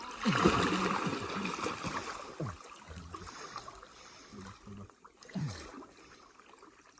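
Water splashing and gurgling around a small boat. It is loudest in the first two seconds or so, then dies down to scattered smaller splashes.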